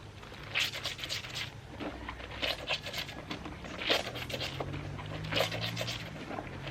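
Wet clothes being scrubbed by hand, fabric rubbed against fabric in short rasping strokes that come in bursts about once a second.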